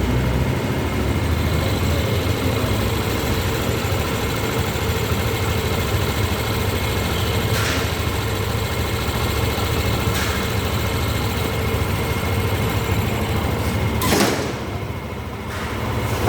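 Yamaha Lexi scooter's single-cylinder four-stroke engine, freshly bored up to 155cc, idling steadily. A short knock comes near the end, after which the sound is a little quieter.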